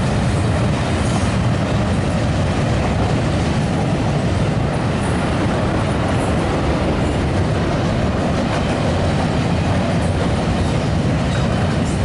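Double-stack container cars of a Canadian Pacific freight train rolling over a steel railway bridge: a loud, steady rumble and rattle of wheels and cars.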